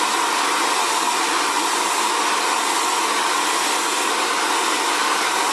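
Xtava Allure ionic ceramic hair dryer (2200 W) running steadily, a continuous rush of blown air with its motor hum, while it dries curly hair.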